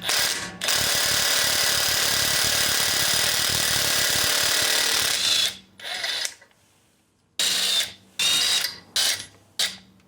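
Handheld power tool running continuously for about five seconds with a dense rattling whir, then, after a short pause, run in several brief bursts.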